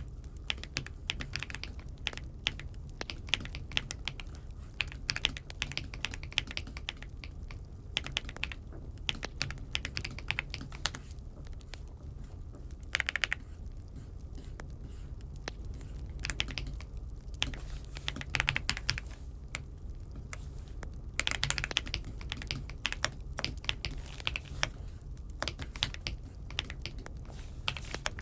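Typing on an Aula F75 mechanical keyboard: quick runs of keystroke clicks in irregular bursts with short pauses, over a steady low hum.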